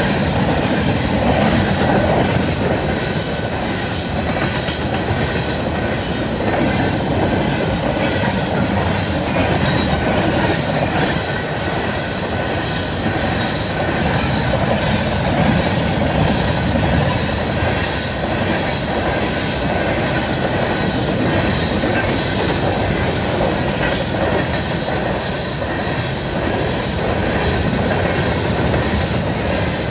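Empty coal gondolas of a long freight train rolling past close by, with a steady rumble and clatter of steel wheels on the rails.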